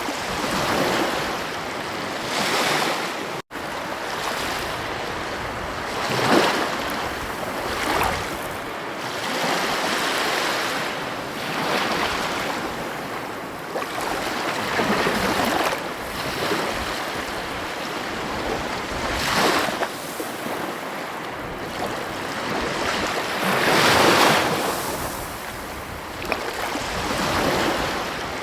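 Ocean waves breaking on a beach: a steady surf hiss that swells with each wave every few seconds, the biggest swell about four-fifths of the way through. The sound cuts out for an instant about three and a half seconds in.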